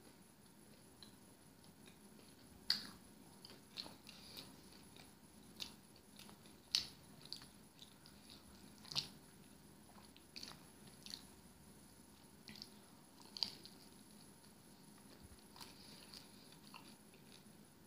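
Close-up chewing of pan-fried pizza with a crunchy crust: scattered sharp crunches and mouth clicks, several seconds apart, between quiet stretches of chewing.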